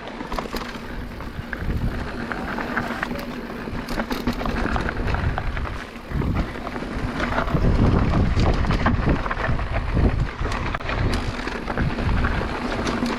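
Electric mountain bike riding down a rough trail: tyres rumbling over rock and dirt with constant rattling and knocking from the bike, and wind on the microphone. The rumble grows heavier about halfway through.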